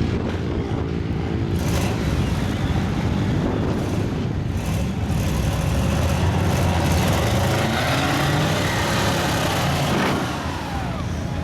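Big lifted mud truck engine running loud and revving, with the rumble easing off briefly about ten seconds in.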